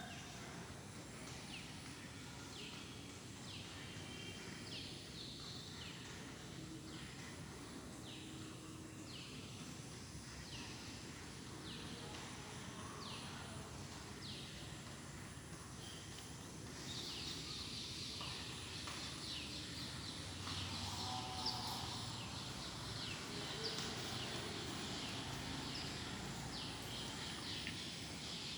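Birds calling outdoors: a short descending call repeated about once a second, joined about halfway through by denser, busier chirping.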